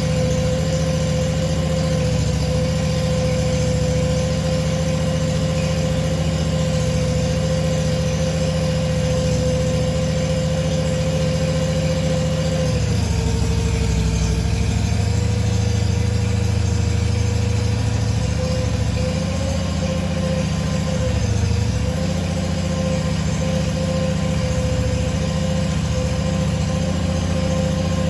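Ventrac compact tractor engine idling steadily, with a steady whine above the engine note. About halfway through, the note dips slightly and the low rumble deepens, then it settles back.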